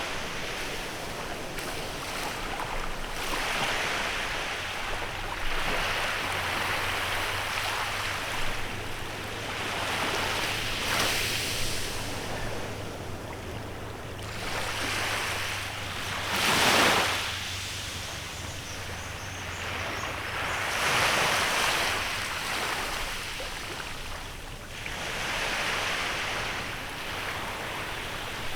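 Small waves breaking and washing on a beach in a bay, each swell of surf rising and fading every few seconds, with the biggest wave about two-thirds of the way through. A faint low hum sits underneath for the first two-thirds.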